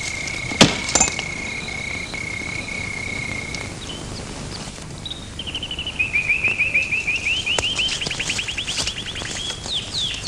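A steady high insect drone, with a sharp knock about half a second in, stops before four seconds. From about five and a half seconds a bird chirps rapidly, about ten short rising chirps a second, running on to the end.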